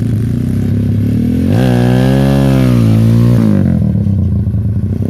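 Motorcycle engine running through a DOS aftermarket racing exhaust, idling with a choppy beat, then revved once about one and a half seconds in. It holds the higher revs for about two seconds and drops back to idle.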